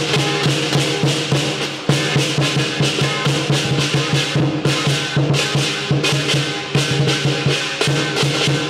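Lion dance percussion: a drum beaten in a fast, driving rhythm with crashing cymbals over it, loud and unbroken.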